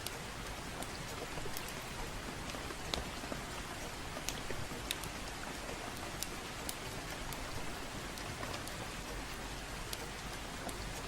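Steady gentle rain, an even hiss, with occasional sharp clicks scattered through it.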